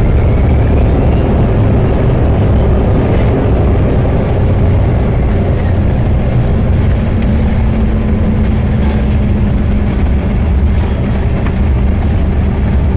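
Steady, loud rumble inside the cabin of a Bombardier CRJ200 regional jet, with a faint steady engine tone over it.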